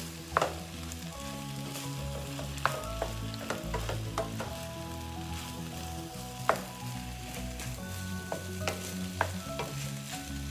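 Shrimp fried rice sizzling in a hot wok as it is stirred and tossed to coat it in sauce. A spatula knocks and scrapes against the wok every second or two, sharpest about 6.5 s in.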